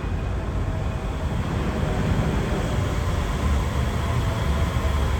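Yurikamome rubber-tyred automated transit train running, a steady low noise that grows a little louder about two seconds in.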